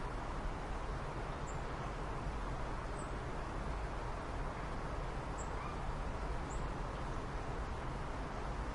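Steady hiss and low rumble of background noise, with four faint, short, high chirps scattered through it.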